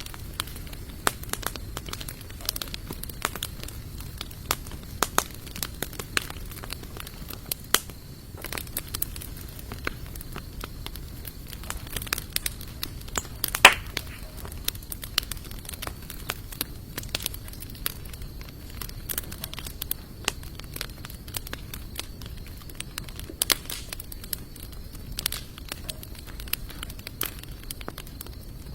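Sawtooth oak and mixed hardwood logs crackling in a campfire: a steady run of small sharp pops, with one loud pop about halfway through.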